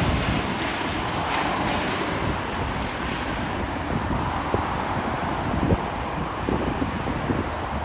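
Aircraft engine noise from a passing plane fading away, the upper hiss dropping out about halfway through, with wind buffeting the microphone.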